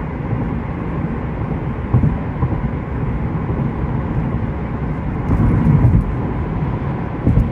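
Steady vehicle rumble, like road traffic recorded outdoors, with a few brief louder swells.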